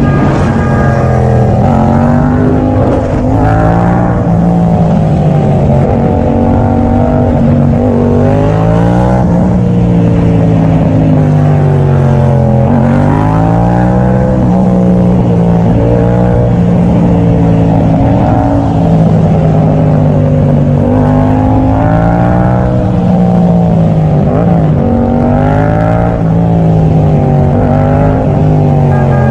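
Vehicle engine running hard on the road, its pitch rising and falling over and over as it speeds up, changes gear and slows.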